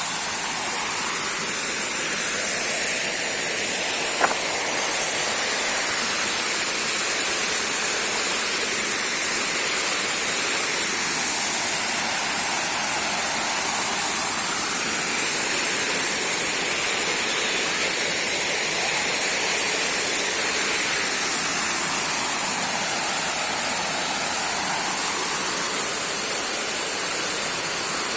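Small waterfall splashing with a steady rushing hiss. A single sharp click about four seconds in.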